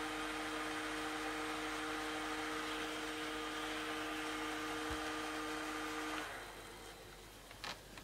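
HP 625 laptop's cooling fan running with a funny noise: a steady two-tone hum over a rushing hiss. It cuts off about six seconds in.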